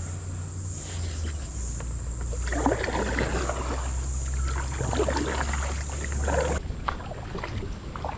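Kayak paddle dipping and splashing through the water in repeated strokes, busiest from about two and a half seconds in, over a steady low rumble on the action-camera microphone.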